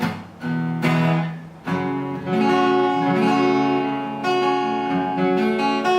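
Ruison RD-45N acoustic guitar, with a spruce top and rosewood back and sides, strummed: three single strums in the first two seconds, then chords left ringing, with a new strum near the end. The tone is clear and resonant.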